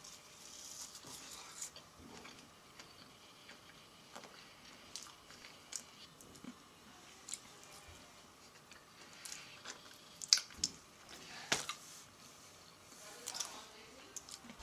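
Faint chewing of a sugar-coated Peeps marshmallow, with scattered wet mouth clicks; two sharper clicks come a little over a second apart in the latter part.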